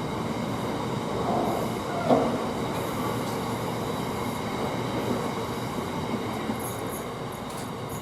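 Container freight train rolling out, its wagons clattering over the rails with a couple of brief wheel squeals about one and two seconds in, growing slightly fainter toward the end.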